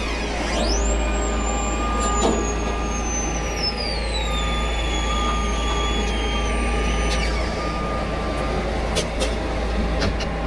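Heavy rotator tow truck's diesel engine running under load while the boom and cable are worked. A high whine climbs sharply at the start, then slowly drops in pitch and cuts off about seven seconds in, over a steady higher tone.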